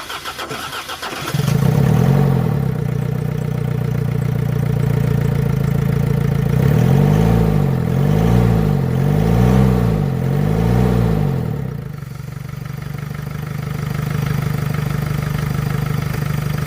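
Mitsubishi L200 four-cylinder turbodiesel cranking on a booster pack and catching about a second in, then idling. It is revved up and down four times in the middle and settles back to idle, running with its intake pipe off the manifold and a failed turbo.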